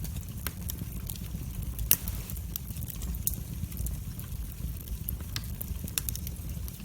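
Wood fire burning in a fireplace: irregular crackles and sharp pops over a low steady rumble of the flames, with one louder pop about two seconds in.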